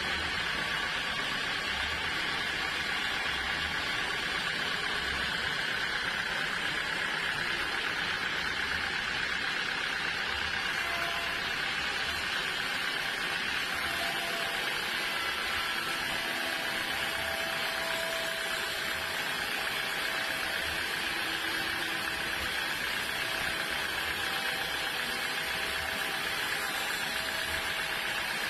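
Sawmill machinery running steadily, a constant mechanical hum and whine with a low pulsing throb underneath.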